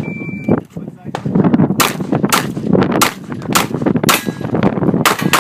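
Shot timer's start beep, one steady electronic tone lasting about half a second, then after about a second and a half a string of roughly eight 9mm shots from a Glock 17 pistol, fired in uneven quick succession, some as close pairs.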